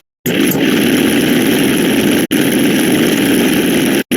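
A dense, continuous wash of overlapping sound effects with a rough, engine-like rumble, cutting out to silence for a moment at the start, again very briefly about halfway, and once more just before the end.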